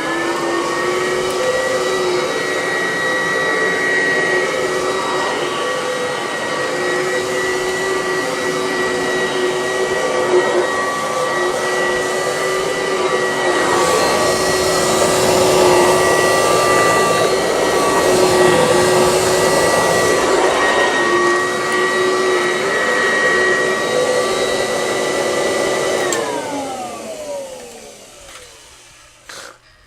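Kirby Classic Omega upright vacuum with a metal fan, running steadily with a high whine. It gets louder and rougher for several seconds in the middle, then is switched off near the end and winds down with falling pitch.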